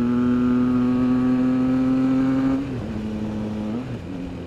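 Triumph Trident 660's inline three-cylinder engine running under way at steady revs, its pitch creeping up. About two and a half seconds in, the revs drop and the sound gets quieter, then the note shifts again near the end.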